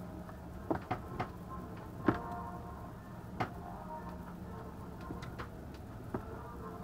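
Irregular sharp knocks and clicks of the ship's interior fittings rattling as the cruise ship rolls in a storm, over a steady low hum. There are about six knocks, the loudest about two seconds in.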